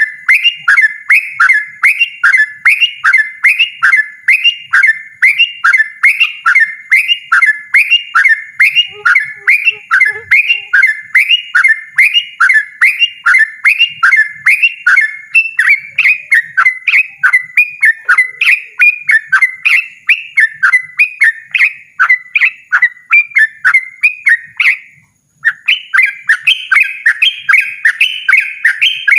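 Yellow-vented bulbul (trucukan) singing a loud, rapid, unbroken run of short repeated phrases, about two to three a second, with one brief pause about 25 seconds in.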